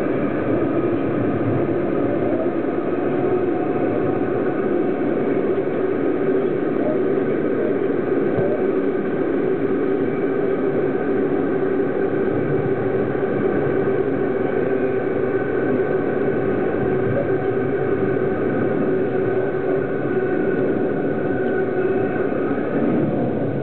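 Train running steadily through a rail tunnel: a constant rumble of wheels on track with several steady tones held over it, the whole sound enclosed by the tunnel walls.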